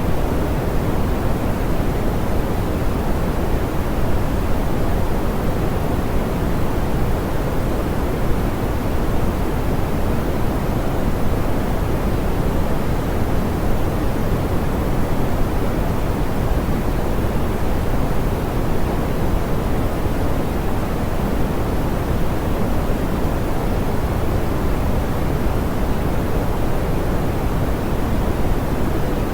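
Steady, smoothed pink noise: an even hiss without tones or breaks, heavier in the lows and rolled off in the highs.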